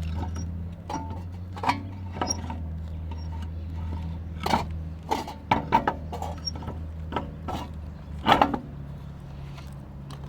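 Irregular clicks, taps and knocks of hand tools and metal parts during wheel reinstallation after a shock change, with one louder knock about eight seconds in. Under it a steady low hum fades after about eight seconds.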